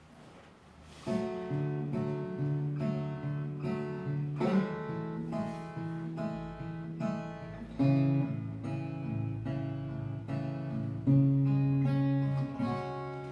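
Acoustic guitar playing a song's introduction: chords picked and strummed, coming in about a second in after a brief near-quiet start.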